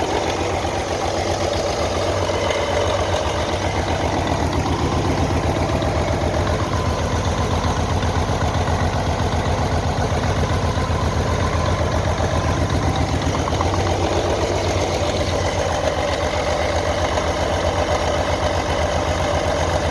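A-01 diesel engine of a TT-4 tracked skidder running steadily at low speed, an even low rhythmic throb.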